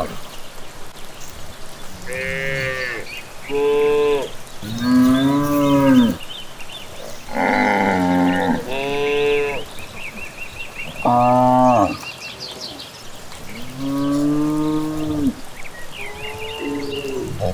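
Several cattle mooing one after another, about eight long calls of different pitches, a few seconds apart, with faint bird chirps between them.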